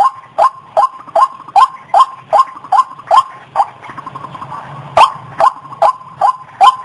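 White-breasted waterhen calling: a fast, even series of short, loud croaking notes, about two and a half a second, with a gap of about a second and a half midway before the calls start again. A thin steady tone runs underneath.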